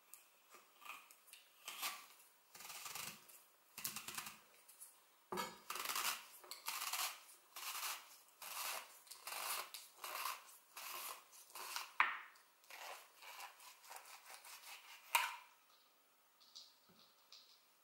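Apple corer pushed and worked through a crisp red apple: a run of short crunching, scraping strokes as the blade cuts the flesh, with a couple of sharper knocks.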